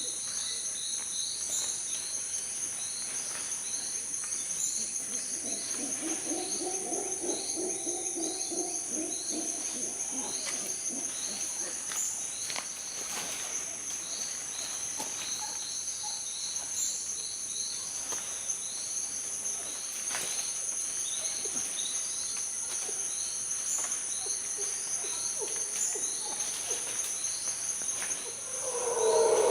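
Steady high-pitched chorus of crickets or cicadas with rows of short repeated chirps. From about six to eleven seconds in, a long hooting call with several tones rises and falls underneath. A louder call comes right at the end.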